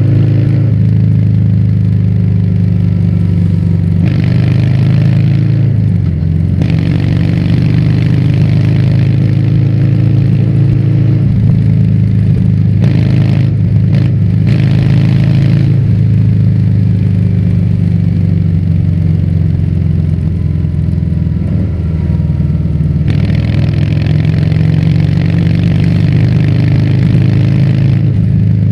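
Harley-Davidson Fat Bob's V-twin engine running through a Vance & Hines aftermarket exhaust while riding, its pitch rising and falling with the throttle. There are stretches of rushing noise over it.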